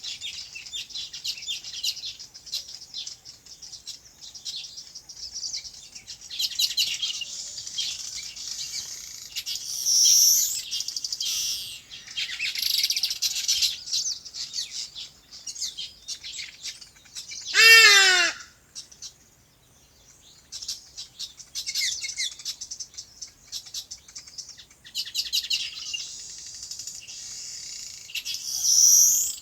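Many small birds chirping in a dense, rapid high chorus that rises and falls in waves. About 18 s in, one loud call sweeps steeply down in pitch, followed by a brief lull.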